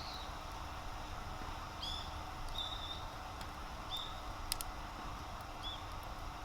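Small bird giving short, high chirps every second or two over a steady outdoor hiss, with a few sharp clicks, the loudest about four and a half seconds in.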